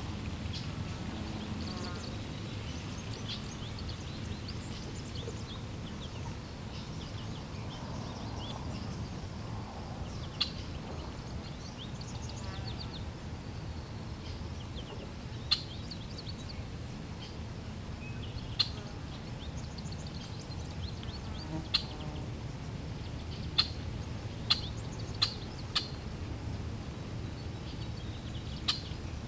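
Flowing water making a steady low rush, with birds chirping and calling here and there above it. In the second half come several sharp, very short notes.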